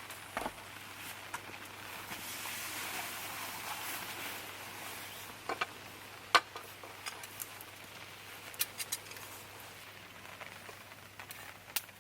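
Rain pattering steadily, with scattered sharp drip ticks, several louder than the rest; the hiss swells for a few seconds in the middle.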